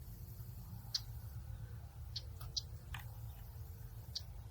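Outdoor nature ambience: a handful of short, high chirps about a second or so apart over a steady low rumble.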